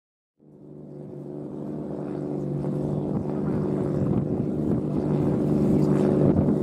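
Drift car's engine, a white Nissan Silvia S14's, running steadily at low revs with an even, unchanging pitch. It fades in about half a second in and grows steadily louder.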